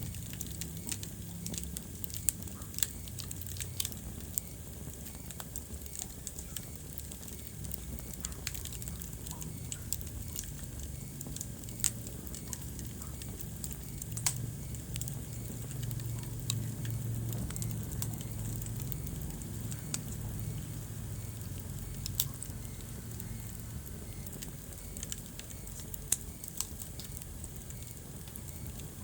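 Wood fire burning in a fireplace: a steady low rumble of flames with constant irregular crackling and a handful of sharper pops.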